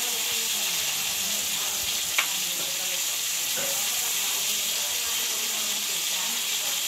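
Shrimp frying in garlic butter in a pan, a steady sizzle, with one short sharp click about two seconds in.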